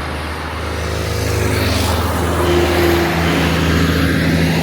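Big truck's diesel engine running steadily with road noise, growing louder over the first few seconds as it draws near.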